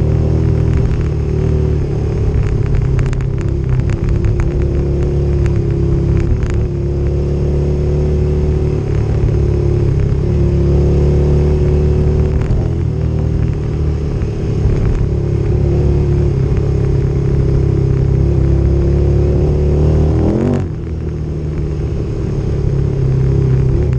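Motorcycle engine running under load on a dirt trail, a steady drone whose pitch shifts a little with the throttle, with scattered clicks in the first several seconds. About twenty seconds in the throttle closes briefly and the engine note dips, then picks back up.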